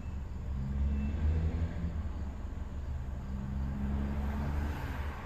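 Car heard from inside the cabin: a steady low engine rumble with a faint hum.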